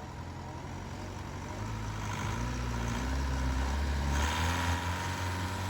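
Engine of a twin-turbo Thai longtail racing boat running, its low drone growing louder, with a rushing noise of water and wind joining about four seconds in.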